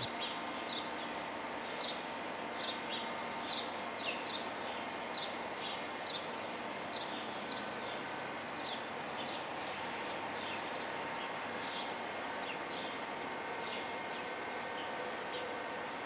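Small songbird chirping: a run of short, quick chirps, about two a second, with a few thinner, higher notes in the middle, over a steady background hum.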